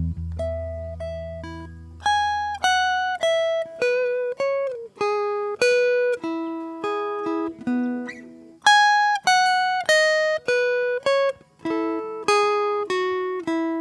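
Solo acoustic guitar played slowly, single notes plucked one at a time in an unhurried melody, some sliding into the next note, over a low bass note that fades out in the first few seconds.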